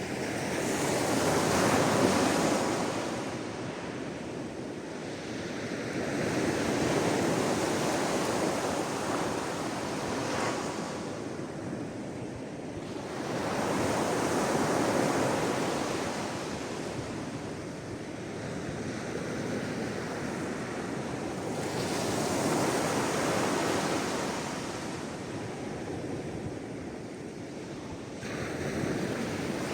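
Sea waves breaking and washing up on the shore, the surf swelling and fading in slow surges a few seconds apart.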